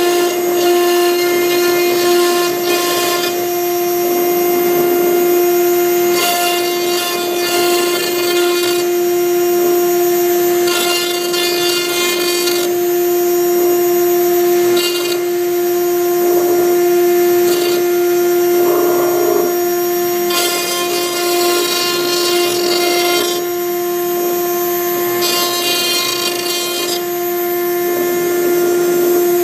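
CNC router's spindle running with a steady high whine while a V-bit engraves MDF. The cutting and machine-travel noise on top swells and fades every few seconds as the bit moves through the letters.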